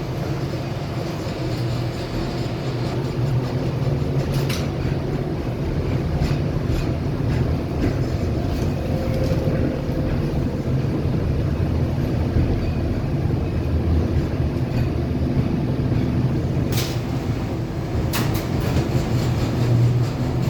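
Tram running along the rails with a steady low rumble. A few sharp clicks cut through it, one about four seconds in and two close together near the end.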